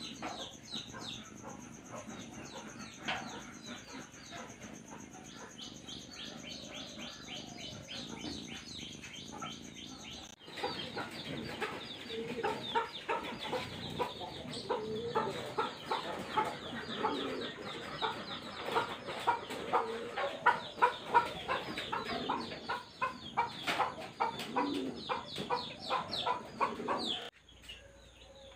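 Chickens clucking with many quick bird chirps, a dense, continuous chatter. The sound changes abruptly about ten seconds in and cuts out about a second before the end.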